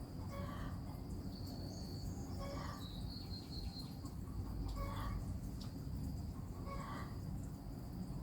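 Outdoor bird ambience: a short call repeated about every two seconds, with high thin chirping and a steady low rumble underneath.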